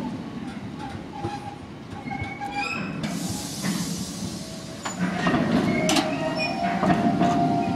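Freight train of bogie tank wagons rolling past, the wheels rumbling steadily with thin squeals coming and going. A brief hiss about three seconds in, and sharp clicks over the rail joints as it gets louder in the second half.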